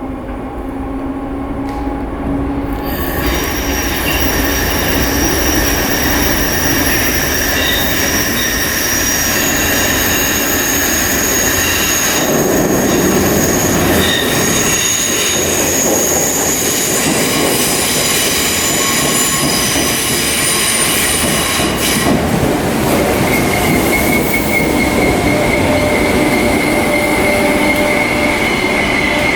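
Merseyrail PEP electric multiple unit running through the station: rumble of wheels on the track with high-pitched wheel squeal. It builds over the first few seconds, then holds steady, and a stronger high squeal comes in about two-thirds of the way through.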